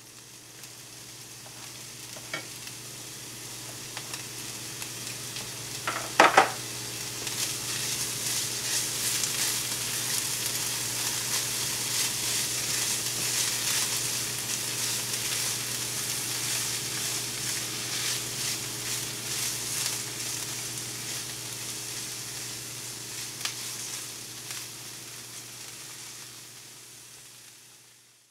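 Ham, onion and green pepper sizzling in a ceramic-coated frying pan while a spatula stirs them. A few sharp clacks of the spatula against the pan about six seconds in are the loudest sounds; the sizzle builds and then fades away near the end, over a steady low hum.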